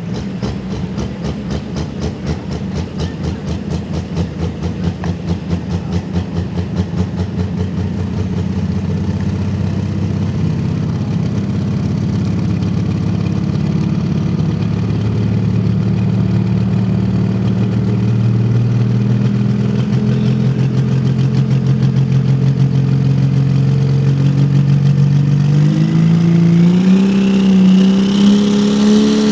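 Diesel pulling truck's engine running with a lumpy, pulsing beat that settles into a steady run. Near the end it revs up, the pitch climbing.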